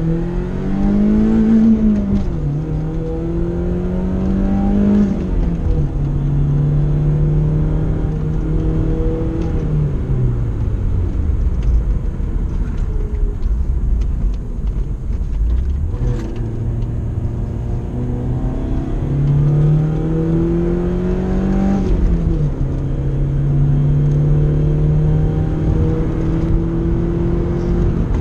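BMW E36 3 Series engine heard from inside the cabin, pulling hard through the gears on a track run. Its pitch climbs and drops sharply at upshifts about two and five seconds in, falls away as the car slows after about ten seconds, then climbs again from about sixteen seconds, with another shift near twenty-two seconds, and holds steady.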